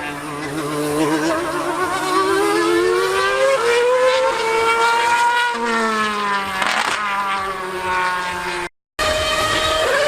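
High-revving racing engine under way, its pitch climbing and falling as it accelerates and lifts, with a brief dropout near the end.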